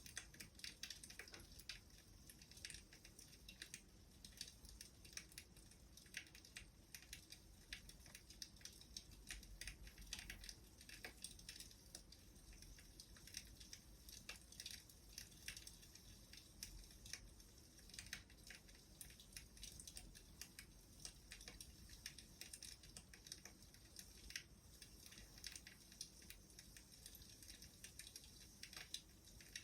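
Wood fire crackling faintly, with a steady scatter of small irregular pops and snaps.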